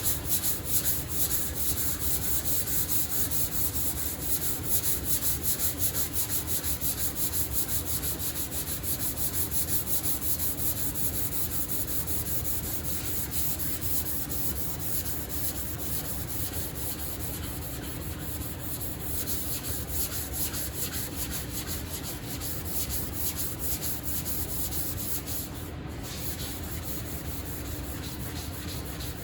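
Sandpaper rubbed back and forth by hand over primer-surfacer on a car hood's flat panel: continuous fast scratchy strokes, a little louder in the first several seconds.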